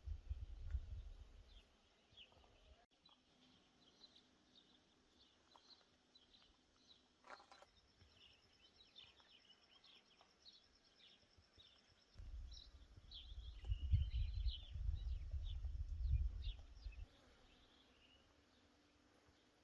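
Birds chirping and calling, faint, with a thin high steady trill through the middle. A low rumble comes in twice, briefly at the start and again for about five seconds from just past halfway, and it is the loudest sound here.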